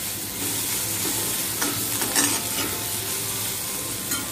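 Vegetables frying and sizzling in oil in a kadhai while a metal spoon stirs them, with a few short scrapes of the spoon against the pan.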